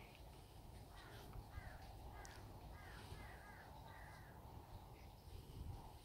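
Faint bird calls: a run of about seven short calls, starting about a second in and ending before the fifth second, two of them coming close together, over a steady low rumble.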